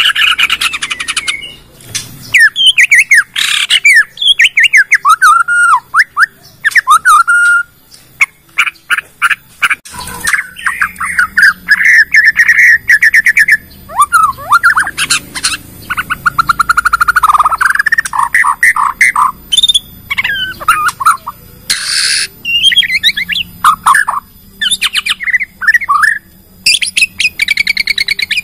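A Bornean shama (murai batu) singing a long, varied song of whistled phrases, gliding notes and rapid rattling trills, with short gaps between phrases.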